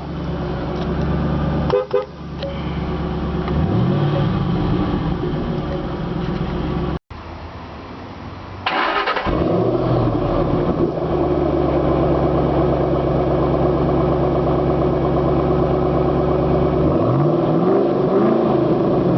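2006 Ford Mustang GT's 4.6-litre V8 idling steadily, with a short blast of the car horn about nine seconds in.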